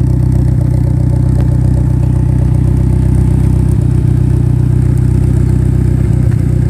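Mitsubishi Lancer Evolution's turbocharged four-cylinder engine idling steadily and loudly through a full 3-inch Megan Racing exhaust, with GSC stage 1 camshafts fitted.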